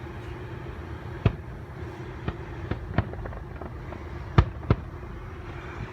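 Fireworks bursting: about six sharp bangs at irregular intervals, the loudest a little past the middle, over a steady low hum.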